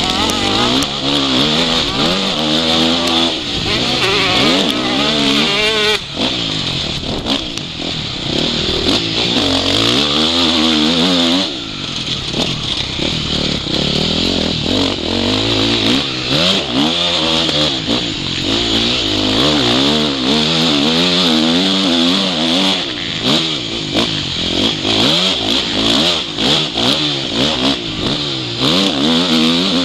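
Motocross bike engine, close up, revving up and falling back over and over as it is ridden, the throttle opening and closing, over a steady hiss.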